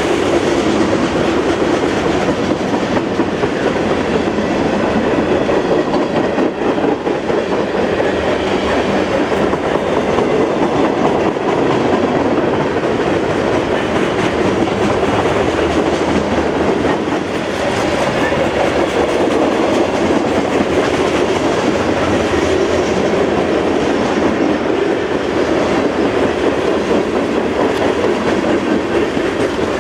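Freight cars of a CSX train rolling steadily past, loud, with a continuous rumble and the fine rapid clicking of wheels on the rails.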